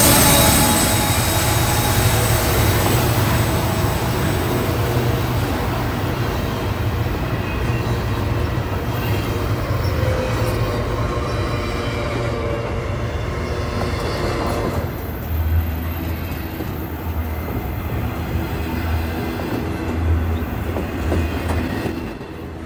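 Train rolling past at trackside: a steady low rumble of cars and wheels on the rails, with a wheel squeal dying away in the first second. The low rumble swells in pulses in the last several seconds.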